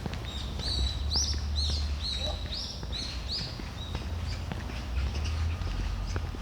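A songbird singing a quick series of repeated high, arched chirping notes, about two to three a second, which stops after about three seconds. A steady low rumble runs underneath.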